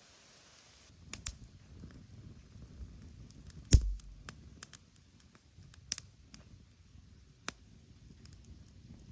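Scattered sharp clicks and knocks of objects being handled, with one heavier thump about four seconds in.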